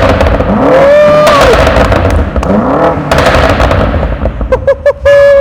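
BMW M5 F90's twin-turbo V8 revved repeatedly through a freshly fitted Milltek axle-back exhaust, the revs rising and falling about three times, with sharp cracks and pops from the exhaust between revs. Near the end a quick run of pops, then a short held rev that drops away.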